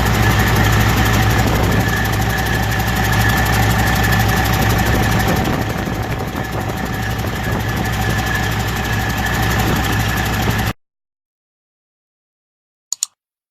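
2007 Detroit Diesel Series 60 14.0-litre inline-six diesel engine idling steadily, after a couple of hours' test running. The sound cuts off abruptly near the end, followed by a brief double click.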